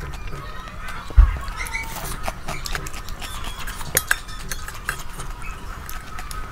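Close-miked eating sounds: wet mouth clicks and chewing of a mouthful of rice and curry eaten by hand, with a low thump about a second in and a couple of sharp clicks around four seconds in.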